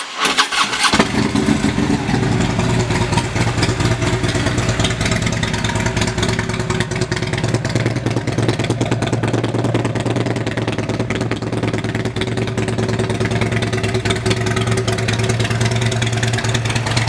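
2016 Harley-Davidson Electra Glide CVO Limited's 110 cubic inch V-twin, breathing through a Rinehart exhaust, starts with a click and a brief crank, then idles steadily.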